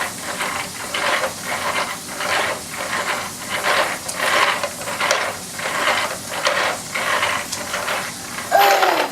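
Toy airplane's mechanism clattering in a steady rhythm, about two noisy pulses a second.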